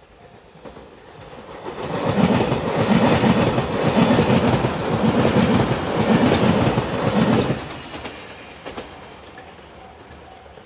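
JR Shikoku limited express train passing close by, its wheels clattering over the rail joints in a steady rhythm. The sound builds over about two seconds, stays loud for about five, then falls away quickly.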